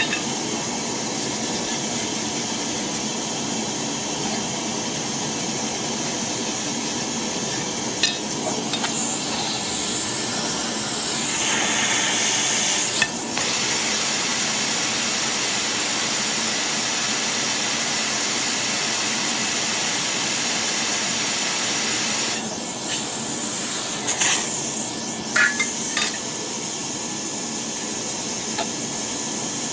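A steady rushing noise during boiler burner cleaning, with a few sharp knocks of metal tools and a brief stretch of scraping about ten seconds in.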